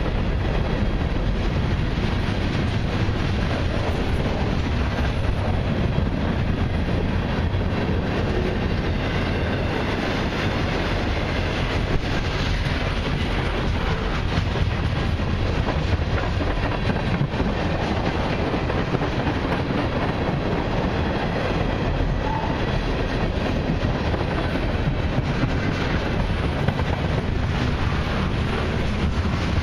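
Freight cars of a long mixed freight train rolling past close by: steel wheels running on the rails in a steady, unbroken noise with fine irregular clatter.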